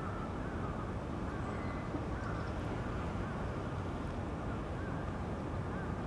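Steady low outdoor background rumble, with a bird faintly calling, a short call repeated about once a second.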